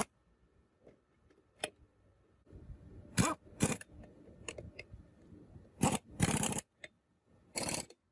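Tools and metal parts being handled at a workbench: a run of short scraping noises with light clicks in between, the longest scrape lasting about half a second just past the middle.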